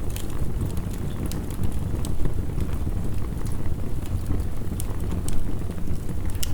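Wood fire crackling, with scattered sharp pops, over a steady low rumble of heavy rain.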